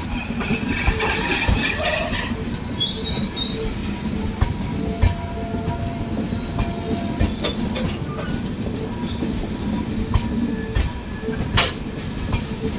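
Indian Railways LHB passenger coaches rolling past: a steady rumble of wheels on rail, broken by irregular clicks and knocks as the wheels cross rail joints.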